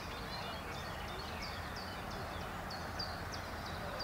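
Birds chirping, short high notes repeating several times a second over a steady low background noise.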